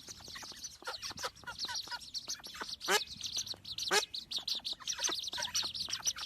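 A group of baby birds peeping: a constant chorus of rapid, high-pitched peeps, with louder calls that slide down in pitch about three and four seconds in.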